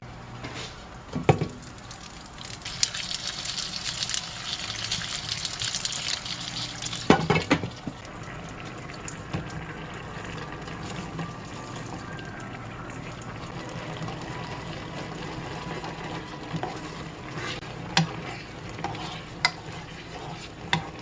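Home-kitchen cooking: food sizzling in a hot pan, with a louder hissing spell from about 3 to 7 seconds in and a few sharp knocks of utensils against cookware, then a steadier, quieter sizzle with scattered clicks.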